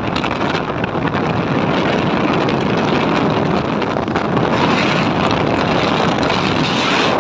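Steady wind rush on the microphone of a moving motorcycle, with the engine and road noise underneath.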